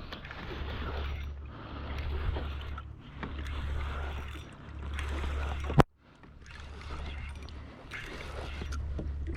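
Water sloshing and splashing against a kayak hull, swelling and fading about every second and a half over a steady low rumble, with one sharp click a little past the middle.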